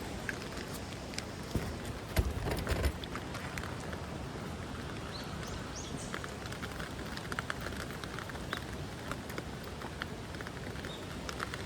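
Steady rain falling, with a short cluster of louder knocks about two seconds in and many small irregular clicks through the rest.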